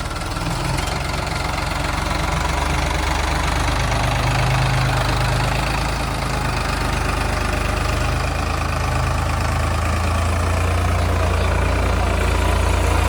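Heavy diesel engine running steadily with a low drone, growing a little louder toward the end.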